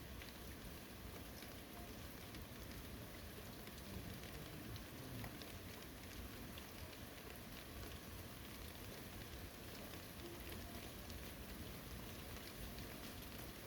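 Steady, gentle rain falling on a forest, a soft even hiss with many scattered drops ticking on surfaces.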